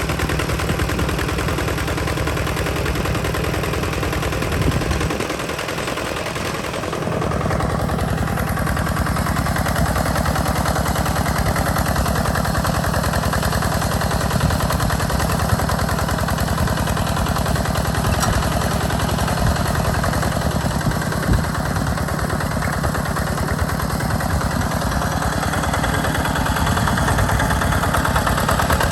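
Hand tractor's diesel engine running under load while pulling a plow, a fast, even chugging beat. The low end briefly thins out about five seconds in, then the engine carries on steadily.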